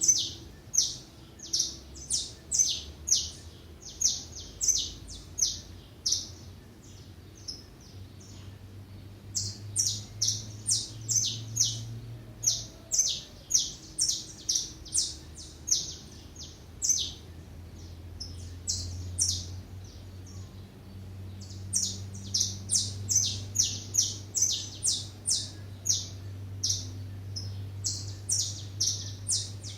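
Small birds chirping: short, high chirps repeated two or three a second in runs, broken by pauses of a few seconds, over a faint low hum.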